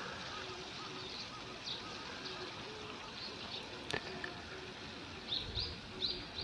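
Steady rush of flowing stream water with scattered short, high bird chirps, a few louder ones near the end, and one sharp click about four seconds in.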